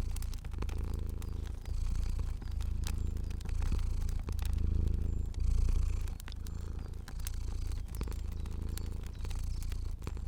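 A domestic cat purring steadily, the low rumble swelling and dipping with each breath about once a second. A fire crackles alongside with scattered sharp clicks.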